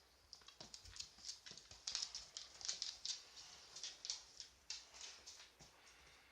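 A dog's claws clicking and tapping on a hard floor as it moves about, a quick, irregular run of light taps.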